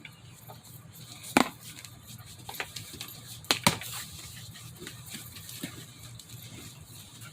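Handling noise as a boxed power-tool kit is opened: a few sharp knocks and clicks, the loudest about a second and a half in and a pair about three and a half seconds in, with fainter ticks and light rustling between.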